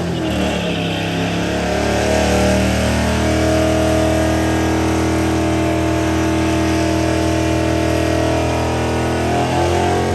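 A car engine revving hard and held at high revs, the pitch sagging at first, holding steady, then climbing again near the end.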